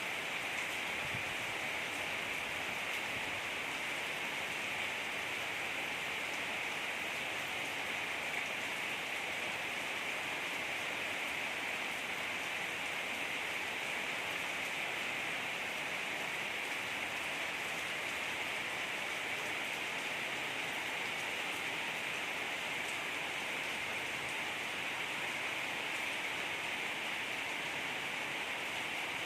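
Heavy rain falling steadily, an even rushing hiss with faint scattered drop ticks.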